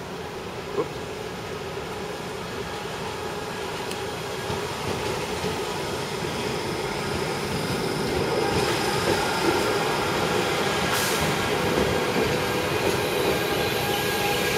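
Type 71 electric multiple unit rolling into the station along the platform, growing steadily louder as it draws alongside. The sound is a rumble of wheels on rail with steady high whining tones, and there is one short click about a second in.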